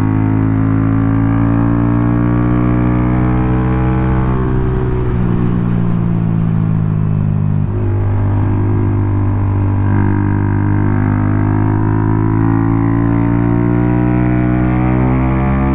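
Honda Grom's 125 cc single-cylinder engine through an aftermarket loop exhaust, running at steady revs while riding. The revs settle to new, steady levels a few times, about five, eight and ten seconds in.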